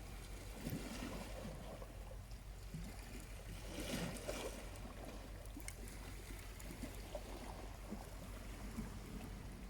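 Small waves lapping gently at the shore, with a soft swell of surf about four seconds in, and an occasional faint crackle from a charcoal campfire.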